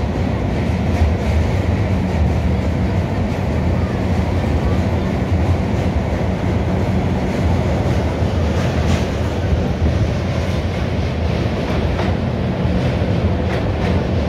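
Passenger train coaches running over a steel truss railway bridge, heard from an open coach door: a steady, loud rumble of wheels on the rails and bridge girders, with a few faint clicks.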